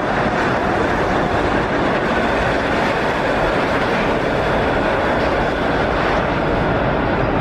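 A train running, heard as a loud, steady noise with no breaks.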